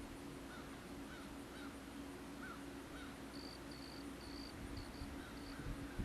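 Faint bird calls: a series of short rising-and-falling chirps, then a quick run of higher, shorter notes about halfway through, over a steady low hum.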